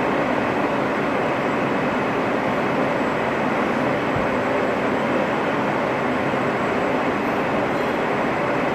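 R160 subway car running along the track, heard from inside the car: a steady, even noise of wheels on rail and running gear.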